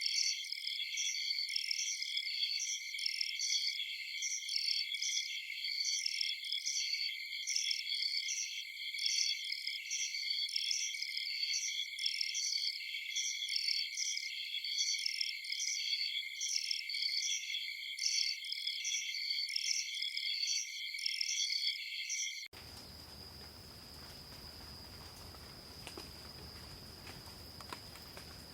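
Dense chorus of night-singing crickets, a shrill layered trill pulsing about twice a second. About 22 seconds in it cuts off abruptly to a quieter single steady high insect trill over faint hiss.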